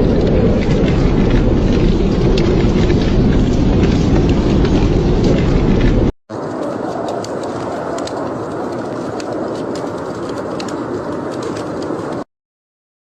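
Fireplace ambience: a steady, deep noise bed with scattered small crackles for about six seconds, then an abrupt switch to a lighter, hissier bed with sharper crackling of burning wood. Near the end the sound drops out completely for about a second.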